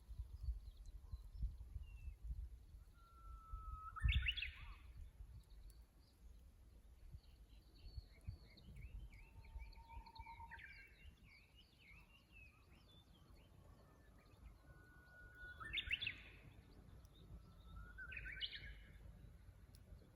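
Japanese bush warbler (uguisu) singing its "hoo-hokekyo" song: a long level whistle that breaks into a quick rising flourish, about four seconds in and again around sixteen seconds, with a shorter phrase just after. Other small birds twitter softly in between.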